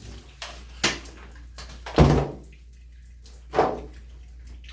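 Water from a newly fitted shower head running into the tub, with three dull knocks, the loudest and deepest about two seconds in.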